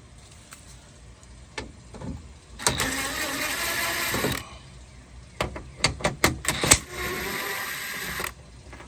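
A ratchet wrench backing out 10 mm bolts in two runs of continuous ratcheting, each lasting a second and a half or so. Sharp metal clicks and knocks come between the runs.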